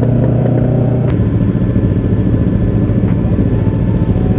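Yamaha R3's parallel-twin engine running at low speed as the bike rolls slowly. It holds a steady tone for about the first second, then runs unevenly, pulsing.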